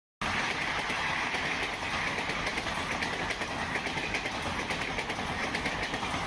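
Steady industrial machine noise, a dense hiss with fast fine crackle, cutting in abruptly just after the start.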